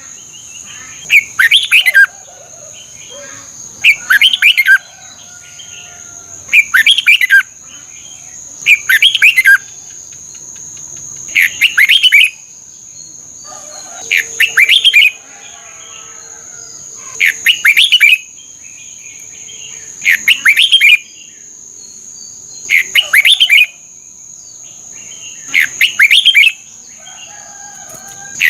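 Red-whiskered bulbul singing: short, loud, bubbling whistled phrases, one every two and a half to three seconds, about ten in all.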